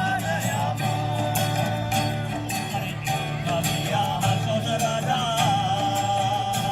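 Live Bengali folk song: a melody sung with long held, wavering notes over plucked-string accompaniment and a steady percussion beat.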